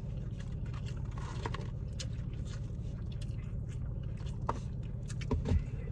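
Close-up mouth sounds of people chewing and biting fried chicken tenders: scattered small wet clicks and smacks, over a steady low hum inside the car.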